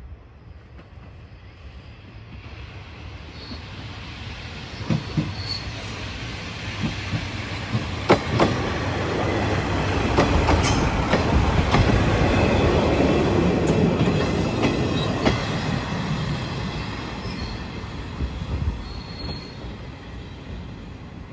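JR Shikoku Shimanto Torocco train, a diesel railcar hauling an open trolley car, passing close by. Its running noise builds to a peak about halfway through and fades as it pulls away, with the wheels clacking over rail joints and a few brief faint wheel squeals.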